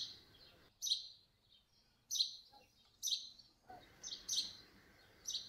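A small bird chirping repeatedly, one short high chirp about every second.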